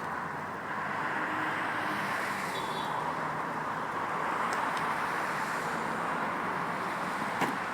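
Steady road traffic noise, a continuous hiss of tyres and engines with a few faint clicks near the end.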